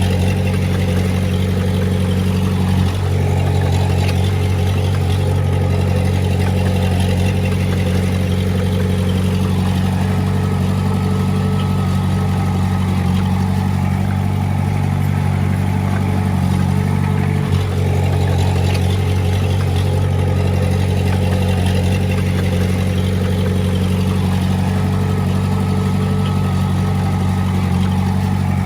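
Diesel engine of a Komatsu D20A bulldozer running steadily under work at a constant speed.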